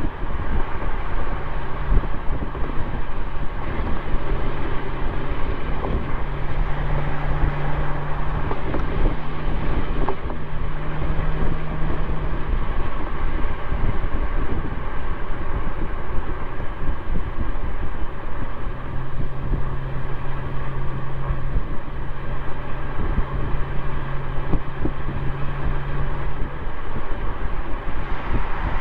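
Exhaust of a 2004 Mercedes-Benz C320 coupe's V6 while driving, picked up at the tailpipe, with wind and road noise on the microphone. The engine note holds a steady pitch through long stretches, as at a cruise.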